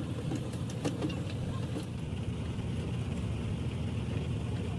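Steady low rumble of a running engine, with a few light clicks in the first second or so.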